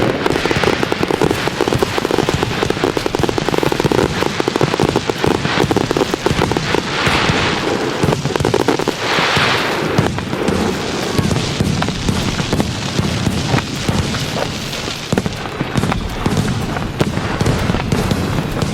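Fireworks going off without pause: a dense, continuous crackle of sharp pops and bangs, with two brief hissing rushes about seven and nine seconds in.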